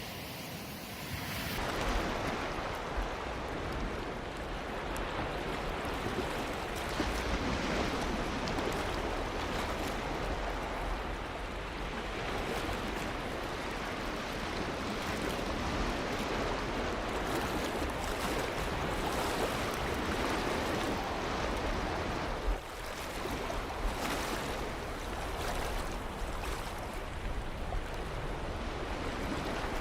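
Ocean waves breaking and washing on a beach, a continuous rushing surf. The sound changes abruptly about a second and a half in.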